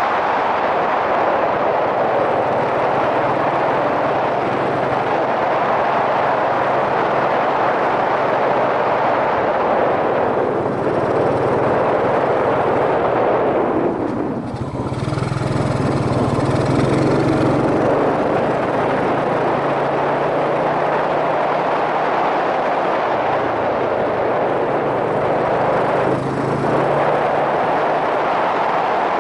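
Yamaha SRX400 single-cylinder four-stroke motorcycle engine running while riding, under steady wind rush on the helmet-mounted microphone. About fourteen seconds in, the noise dips briefly and the engine note then comes up stronger for a few seconds.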